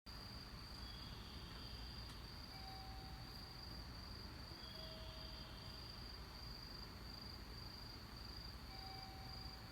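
Faint night insects, a steady high-pitched cricket-like trill. Soft, short tones sound now and then, a few seconds apart.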